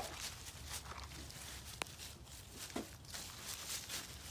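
Faint footsteps and rustling of people walking, with a few sharp clicks.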